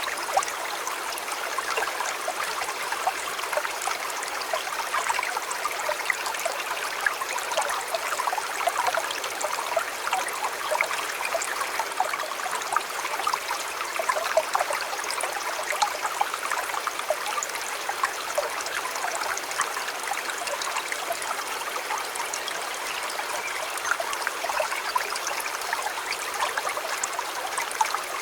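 A shallow river or stream flowing and burbling steadily over rocks, full of small splashes and trickles.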